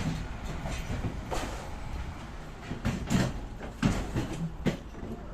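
Town-centre street noise: a steady low rumble of traffic with scattered knocks and clatters.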